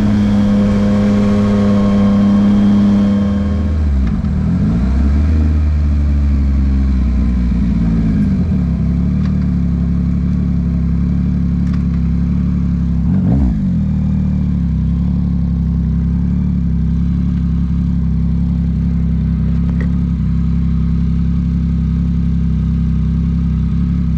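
Yamaha MT-09's three-cylinder engine running through a Dominator HP3 aftermarket exhaust while riding. It holds a steady note, drops in pitch about four seconds in and swings up and down for a few seconds, then settles into a steady lower note, with a brief dip and rise in revs about halfway through.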